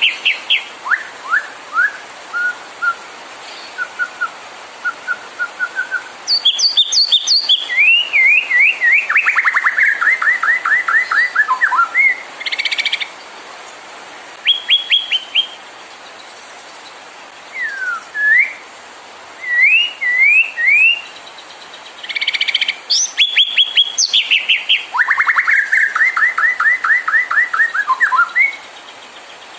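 White-rumped shama (murai batu) singing a varied song. It mixes short upslurred whistles and clipped notes with two long, loud, rapid runs of falling notes, one about a quarter of the way in and one near the end.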